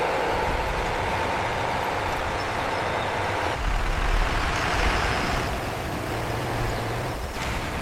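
Truck engine running steadily, the low rumble getting deeper from about three and a half seconds in.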